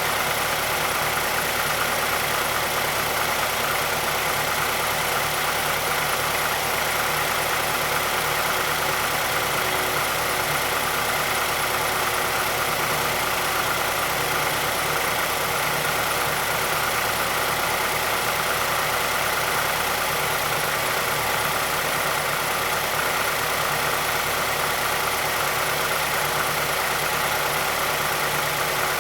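2006 Mazdaspeed6's 2.3-litre turbocharged direct-injection four-cylinder idling steadily after a cold start. The engine has a pronounced click from the timing chain area, the variable valve timing and timing chain noise covered by Mazda's SSP-87.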